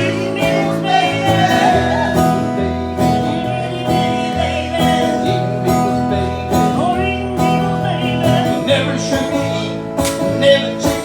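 Acoustic guitar strummed in a steady country-style rhythm, with a man's singing voice over it at times.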